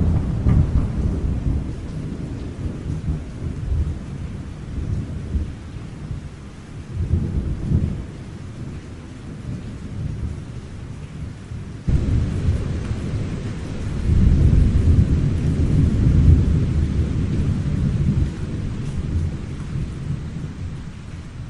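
Thunder rumbling over steady rain. A long roll of thunder fades out, then about halfway through a new peal starts abruptly, swells and rolls away.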